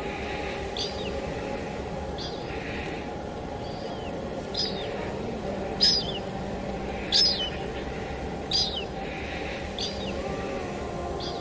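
A bird repeats a short, high call that sweeps downward, about every second and a half, over a steady hiss of rain and a few low sustained tones.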